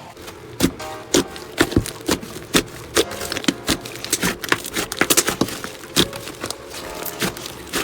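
Slime being squeezed and poked by hand, giving irregular sharp pops and crackles, a few each second.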